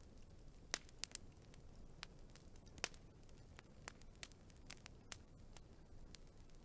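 Wood fire crackling: irregular sharp pops and snaps, the loudest about a second in and again near three seconds, over a faint low rumble.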